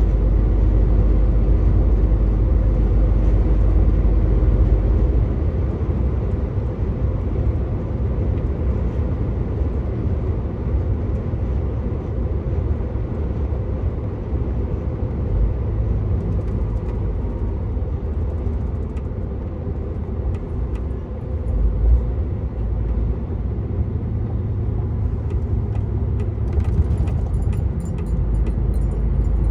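Truck's diesel engine and tyre noise in steady running, a continuous low rumble whose deepest part eases about five seconds in. A short bump stands out a little past two-thirds of the way through, and faint ticks come near the end.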